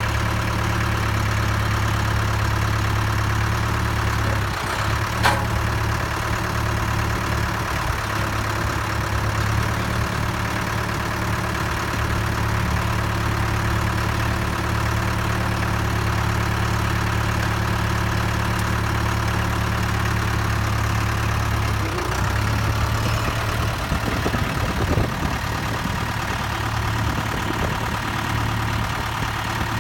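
AGCO GT65 tractor engine idling steadily, with a single sharp click about five seconds in and a brief unsteady patch a little after twenty seconds.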